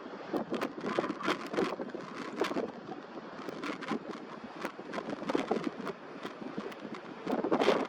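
Gusty wind buffeting the microphone in the wake of a typhoon, full of irregular crackles and rumbles, swelling louder near the end.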